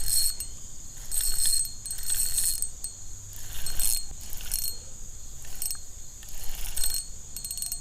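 Spinning reel being cranked in short bursts, its mechanism clicking, while a hooked catfish is played, over a steady high-pitched whine.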